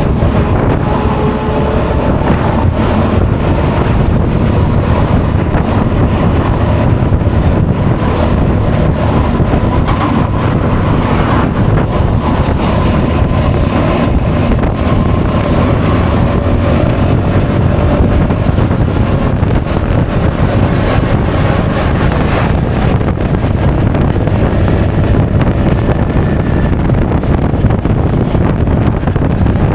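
Wind rushing over an action camera's microphone while riding a Honda Forza 350 scooter at speed. A faint engine note drifts up and down in pitch underneath the wind.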